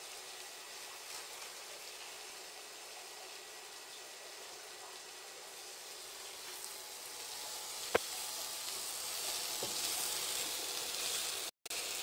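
Sliced bitter gourd sizzling as it is stir-fried in a small nonstick pan, the sizzle growing louder over the last few seconds. One sharp click comes about eight seconds in, and there is a fainter tap a little later.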